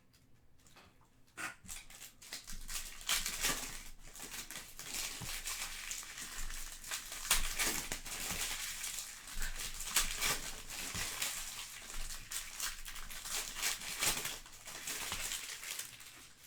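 Crinkling and tearing of trading-card pack wrappers being opened and handled, a dense run of crackles starting about a second in and dying away near the end.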